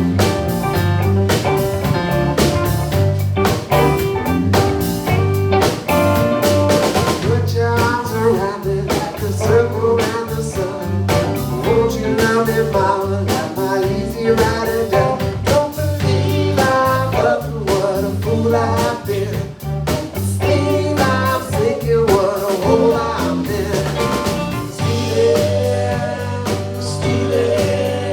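Live band playing a blues tune with drum kit and guitar over a steady bass pattern, with a lead melody line that comes in about eight seconds in.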